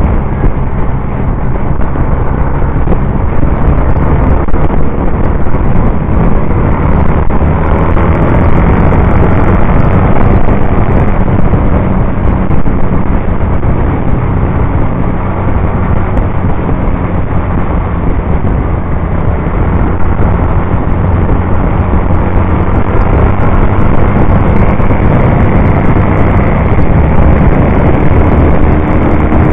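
Norton Commando 850 parallel-twin engine running loud and steady at racing speed, heard from a camera mounted on the bike, with wind rush over the microphone.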